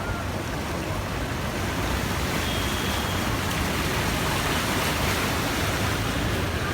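Floodwater rushing steadily, a dense even noise with no breaks.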